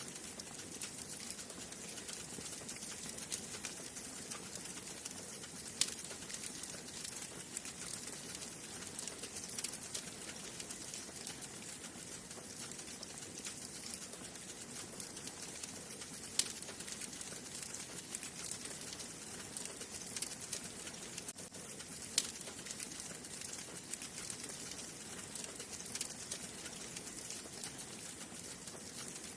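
Wood fire burning in a fireplace: a steady hiss with constant small crackles and a few sharper pops, about six, sixteen and twenty-two seconds in.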